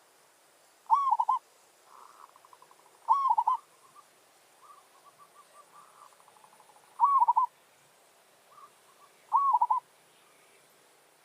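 Zebra dove (merbok) calling: four loud cooing phrases about two seconds apart, each a short rising-and-falling coo broken into quick notes. Softer, rapid trilling coos fill the gaps between them.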